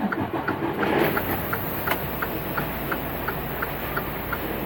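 Freightliner Cascadia's DD15 diesel engine idling steadily, heard with a rapid, very even ticking of about five or six ticks a second over the low rumble.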